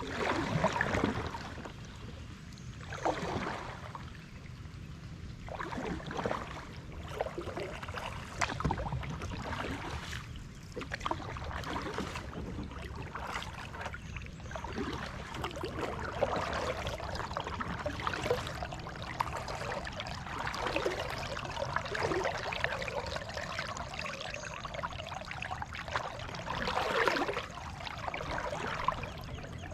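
Kayak paddling: water splashing and trickling off the paddle blades, swelling with each stroke every few seconds.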